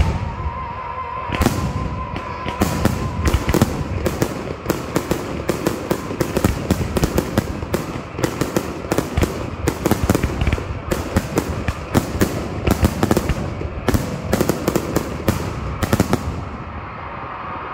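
Aerial firework shells bursting in a dense barrage, several bangs a second, that stops suddenly near the end.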